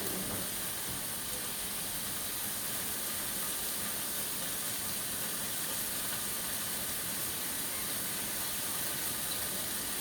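Chicken pieces sautéing in hot oil in a pan, giving a steady, even sizzle.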